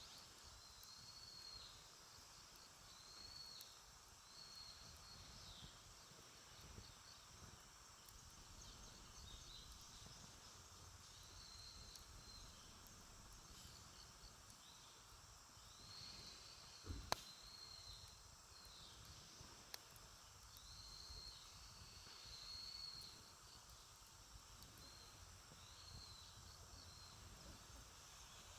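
Wood campfire burning quietly, with faint scattered crackles and one sharp pop about 17 seconds in. Repeated high chirping calls come in short groups throughout.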